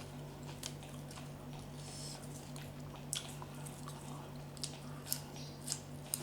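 Close-up mouth sounds of someone eating santol salad: wet chewing and lip smacks, with short crisp clicks scattered through, over a steady low hum.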